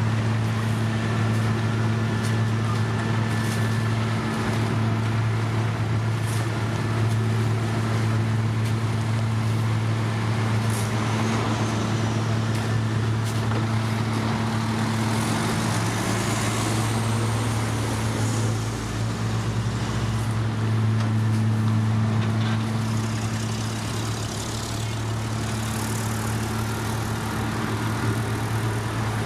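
Heavy road-construction machinery running: a steady, low diesel engine drone with a broad mechanical rumble over it.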